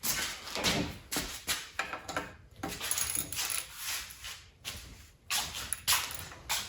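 Bicycle crank being spun and handled by hand on a freshly greased bottom bracket: an uneven series of rubbing, rustling noises and clicks from the bearings and parts, with no steady tone.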